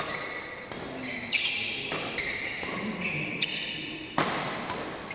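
Sharp hits of play in a doubles rally, echoing in an indoor hall: one about a second and a half in, another half a second later, and a third just after four seconds, each followed by a brief high ringing.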